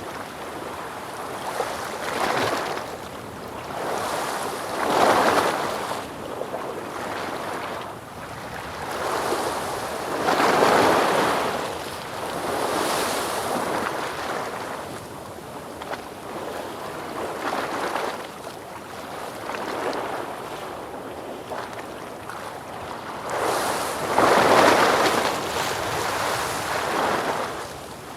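Ocean waves rolling in and breaking, a steady wash of surf that swells and falls every few seconds. The biggest surges come about five seconds in, around ten seconds in, and again near the end.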